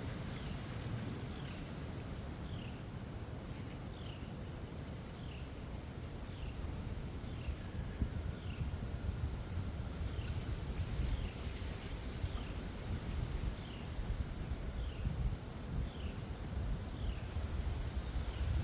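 Wind rumbling across the microphone, with a bird repeating a short downslurred chirp about once or twice a second.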